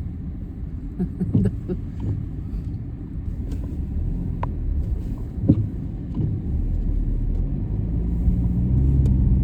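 Car driving on a snow-covered road, heard from inside the cabin: a steady low rumble of engine and tyres that grows louder over the last few seconds, with a few faint knocks.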